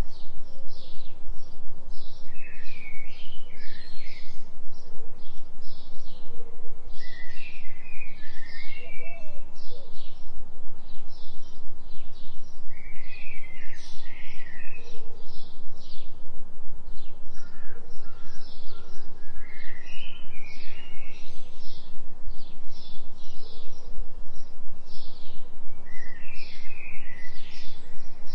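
Recorded forest birdsong: a bird repeats short high chirps about twice a second, and another sings short warbled phrases every five seconds or so. Under it runs a steady low hum that pulses about three times a second, the 3 Hz delta binaural beat.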